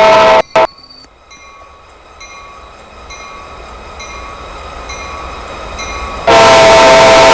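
Diesel locomotive horn of a CPKC freight train blowing: a long blast cuts off about half a second in with a short blip after it. A quieter stretch follows, with a bell ringing at an even pace and the train's rumble growing, and then the horn sounds again about six seconds in.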